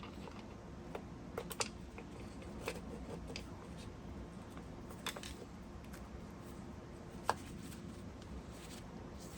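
Scattered light clicks and taps, irregularly spaced, of metal pump parts and hand tools being handled during reassembly, over a steady low hum.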